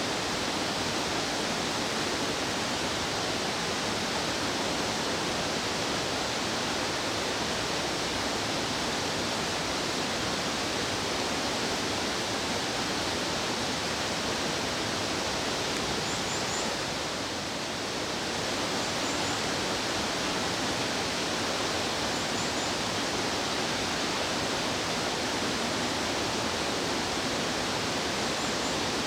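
Fast-flowing stream water rushing steadily, a dense even roar, with a few faint high chirps over it.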